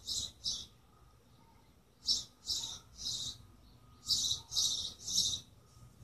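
A bird chirping in short, high notes, grouped in threes and repeated about every two seconds.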